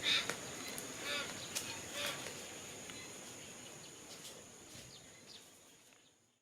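A crow cawing three times, about a second apart and growing fainter, over a steady thin high-pitched insect-like tone; the sound fades out near the end.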